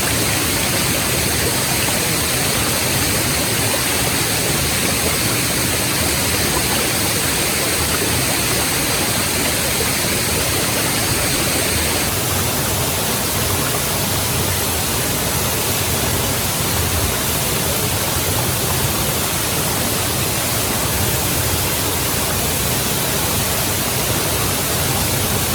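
Waterfall rushing, a steady, even roar of falling water. The high hiss changes slightly about halfway through.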